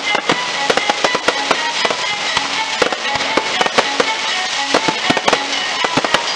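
Fireworks going off in a dense run: many sharp bangs and crackling reports, several a second, from bursting shells and crackling stars, with music playing underneath.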